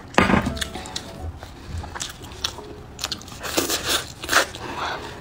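Close-miked eating: biting into and chewing braised pork hock meat and skin, with irregular sharp clicks and smacks from the mouth.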